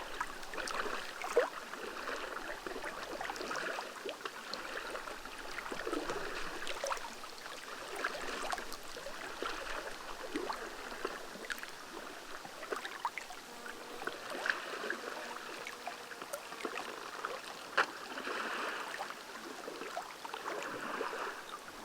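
Water splashing and trickling around a kayak as it is paddled, swelling and easing every couple of seconds with the strokes, with a few sharp knocks, the loudest about a second in and near the end.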